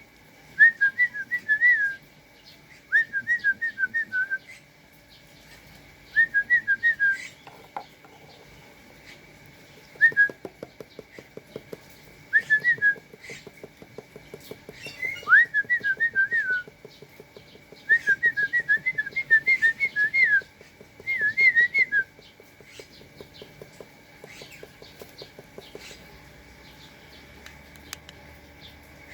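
Short phrases of quick whistled notes, each phrase a rapid run of rising and falling chirps lasting a second or two, repeated every few seconds and dropping away in the last several seconds.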